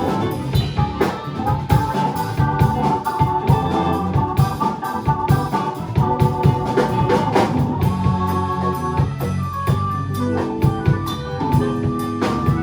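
Live rock band playing an instrumental passage without vocals: a drum kit keeping time under held organ-like keyboard chords, which change to a new chord pattern about ten seconds in.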